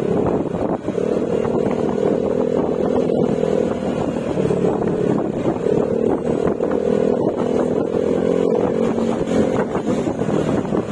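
Yamaha Mio Gravis 125 cc single-cylinder scooter running at cruising speed through an aftermarket Akrapovic exhaust with a silencer, with a steady engine drone. The engine note eases off briefly about four seconds in, then picks back up. Wind buffets the microphone throughout.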